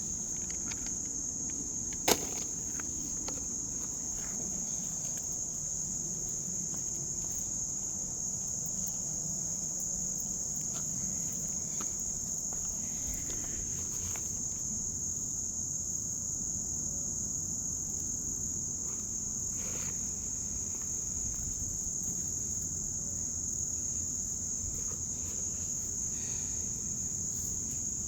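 Steady, unbroken high-pitched insect chorus, with a single sharp click about two seconds in.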